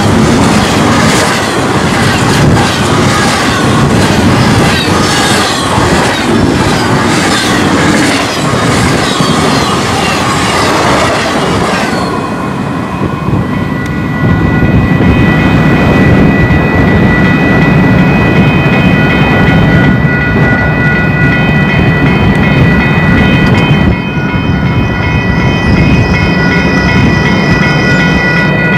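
Double-stack intermodal freight train passing at track speed of about 70 mph, its wheels clattering rapidly over rail joints. The clatter stops about twelve seconds in as the last car goes by, leaving a lower rumble and the steady ringing of the grade-crossing bell.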